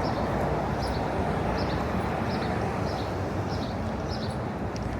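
City street ambience: a steady wash of traffic and urban noise, with faint light ticks repeating about every 0.7 seconds.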